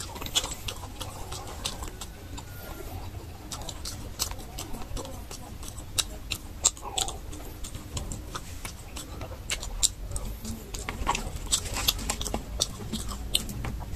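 A person chewing and biting a meal of boiled meat on the bone and fresh tomato, with irregular wet clicks and smacks of the mouth.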